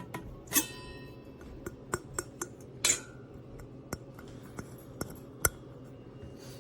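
Coffee percolator parts being handled: scattered taps and clicks, with two louder metal clinks that ring briefly, about half a second and three seconds in, and a sharp click near the end.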